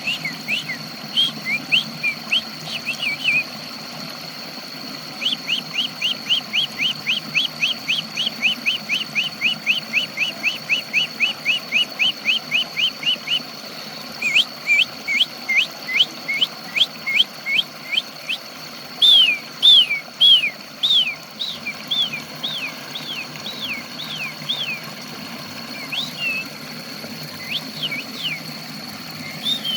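A songbird singing after water therapy meant to get it singing again. It gives a fast, even run of sharp downward whistles, about five a second, then slower, more widely spaced whistles, over a steady high whine.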